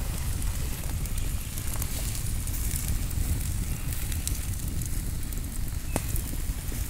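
Campfire burning with scattered crackles and pops, one sharper pop about six seconds in, over a steady low rumble.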